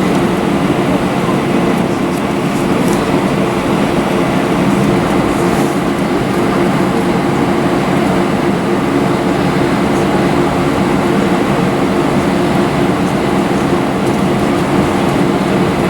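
Steady cabin noise inside an Airbus A320 airliner, its IAE V2500 engines running: an even roar with a low hum of several steady tones.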